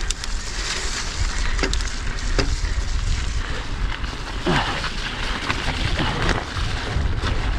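Electric mountain bike riding down a muddy, slippery trail: steady wind rumble on the camera microphone over tyre and trail noise. A few short falling squeaks come through, about two seconds in and again near the middle.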